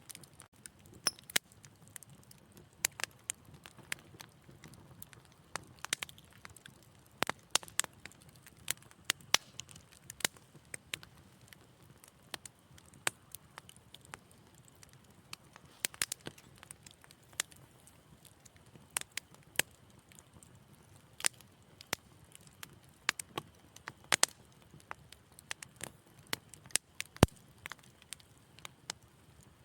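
Wood fire in a fireplace crackling, with irregular sharp pops and snaps over a faint low hiss.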